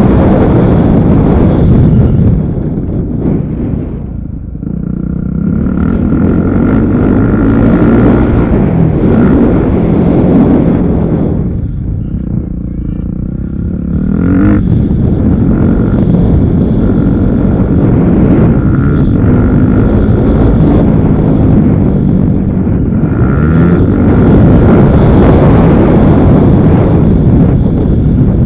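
Motocross motorcycle engine revving up and down under hard throttle, rising and falling in pitch, with the throttle eased off briefly about four seconds in and again near the middle before it pulls hard again.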